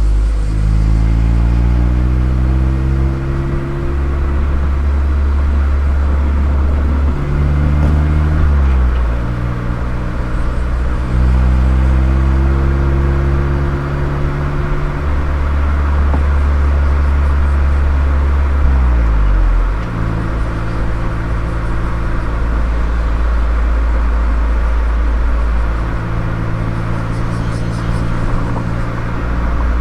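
Mazda MX-5 (ND Roadster) four-cylinder engine through an aftermarket KPC muffler, driving in city traffic. The engine note climbs in two long pulls through the gears with drops at the shifts, falls sharply as the car slows about two-thirds of the way in, then holds steady at cruising speed.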